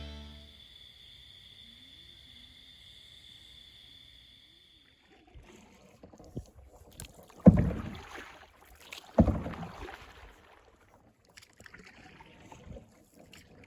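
Canoe paddling on the water: after a few quiet seconds with a faint steady high tone, a series of paddle strokes and splashes, two of them loud about a second and a half apart, with smaller knocks and water noise around them.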